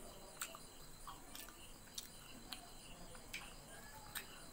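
A person chewing food close to the microphone, with short sharp mouth clicks about once or twice a second.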